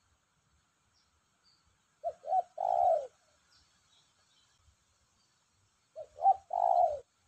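Spotted dove cooing: two songs about four seconds apart, each two short coos followed by a longer, drawn-out coo.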